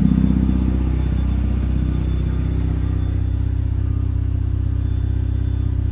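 Mazda RX-8's two-rotor Renesis rotary engine running under light load while driving, a steady low drone that eases off slightly about a second in as the car settles into gentle cruising.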